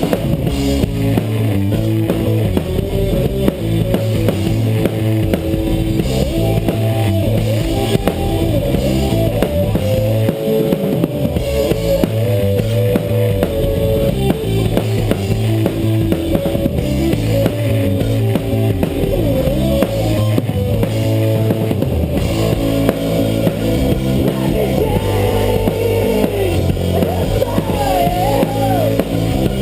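Live rock band playing an instrumental passage: drum kit keeping a steady beat under bass and electric guitar, with a bending lead line near the end.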